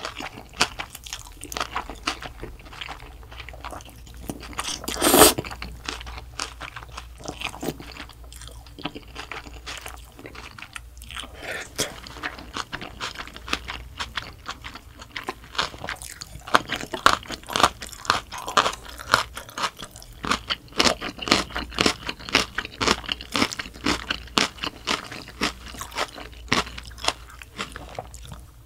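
Close-miked chewing and crunching of spicy bibim noodles mixed with young-radish kimchi and sliced green chilies: a dense run of quick wet crackles and crunches, with one louder noise about five seconds in.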